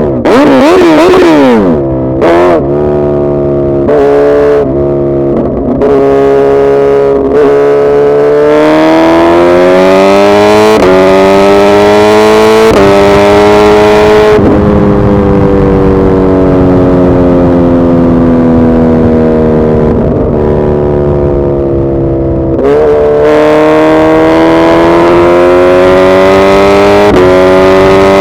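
Suzuki Hayabusa inline-four motorcycle engine, loud, with sharp throttle blips in the first few seconds. It then accelerates through the gears, pitch climbing and dropping at each upshift, and the revs fall slowly for several seconds as it slows. It pulls through the gears again near the end.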